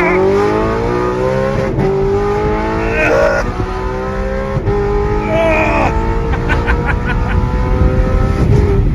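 Straight-piped Audi R8's naturally aspirated V8 pulling under acceleration, its exhaust note rising slowly and steadily in pitch, heard from inside the car.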